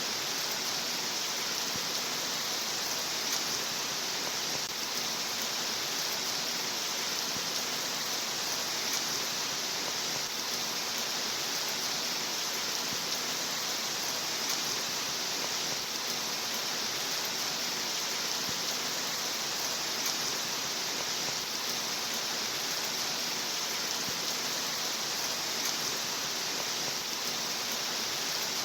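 Steady rain, an even, bright hiss that never changes in level.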